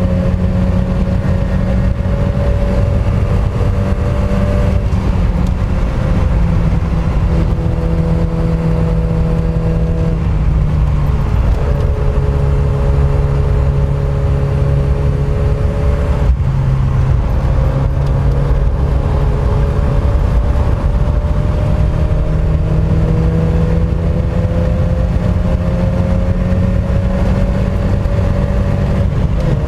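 Mk1 Mazda MX-5's four-cylinder engine being driven hard on track, its revs climbing steadily and then dropping back several times, over a deep, continuous rumble of road and wind noise.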